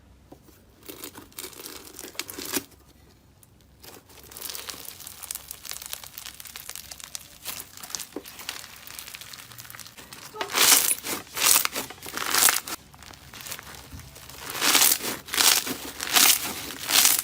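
Slime being squeezed and pressed by hand: crackling, crinkly squishes in short runs, turning into a series of louder bursts in the second half.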